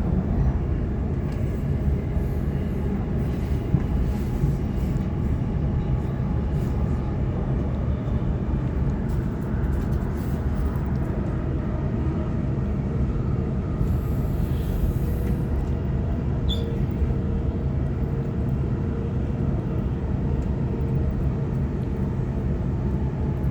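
Waratah electric multiple unit running at speed, heard from inside the carriage: a steady low rumble of wheels on track, with a faint steady whine through the middle stretch.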